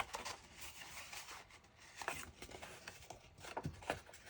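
Faint rubbing and soft taps of a cardstock slide being pushed into its tight paper sleeve, with a few light handling sounds spread through. The fit is still stiff.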